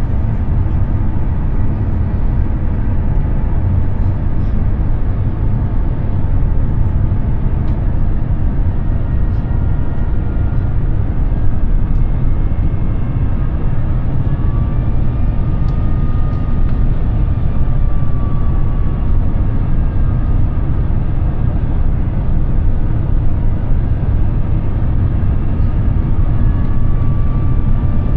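Steady cabin noise inside an Airbus A350-900 airliner in flight: a loud, even rumble of airflow and jet engines, with a faint high whine that drifts slightly in pitch.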